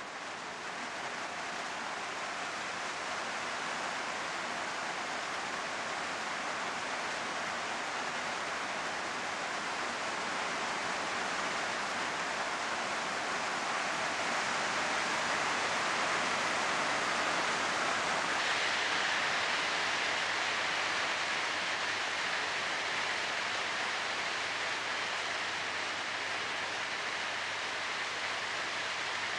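Heavy downpour of rain hissing steadily, a little louder around the middle.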